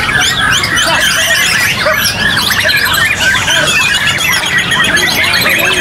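Many white-rumped shamas singing at once, a dense tangle of overlapping whistles, trills and rapid glides with no pause, over a low crowd murmur.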